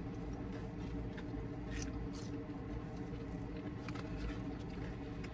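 Steady low hum with a few faint rustles and clicks, the loudest two close together about two seconds in.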